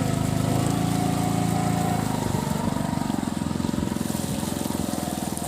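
Small engine running steadily at travelling speed, a low hum with a fast even pulse.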